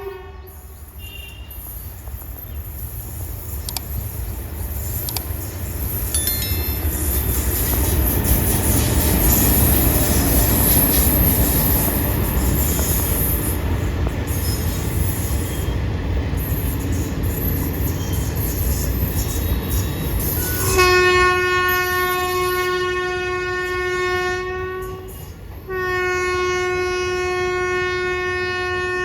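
Indian Railways train running with a steady rumble that grows over the first ten seconds or so. About two-thirds of the way in, the locomotive's horn sounds two long blasts on one steady pitch, each about four seconds, with a short break between them.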